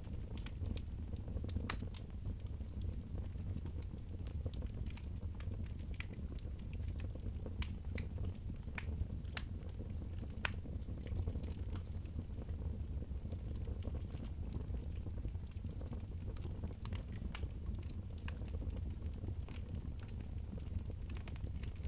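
Wood fire crackling in a fireplace, with irregular sharp pops scattered over a steady low rumble.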